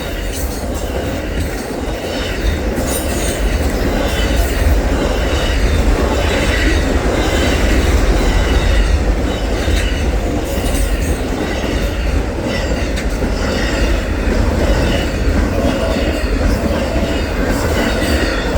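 Amtrak Auto Train's cars rolling past close by: a loud, steady rumble of wheels on rail, with irregular clacks as the wheels cross rail joints.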